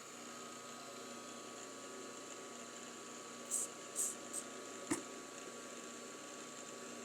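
Steady electric hum of a running milling machine, with a few short high hisses about halfway through and a single sharp click soon after.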